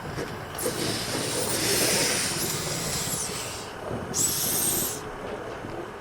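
Narrow-gauge steam locomotive letting off steam: a long hiss starting about half a second in, then a shorter hiss of about a second near the end, over a low rumble.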